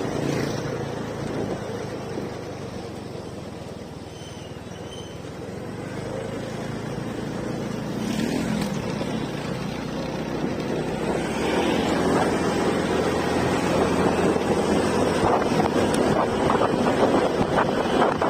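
Motorcycle engine running while riding, with wind buffeting the microphone; the engine eases off a few seconds in, then gets louder from about two-thirds of the way through.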